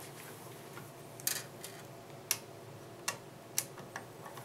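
A few sharp clicks, spaced irregularly, from a screwdriver tightening the screws that hold a computer case fan.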